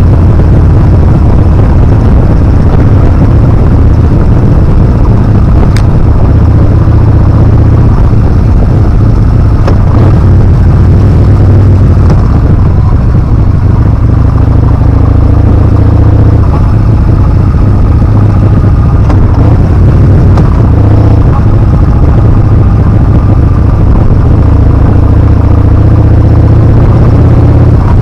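Heavy wind buffeting on the action-camera microphone of a Yamaha Bolt R-Spec motorcycle on the move, very loud and low. Beneath it the bike's air-cooled V-twin engine runs, its pitch rising and falling with the throttle.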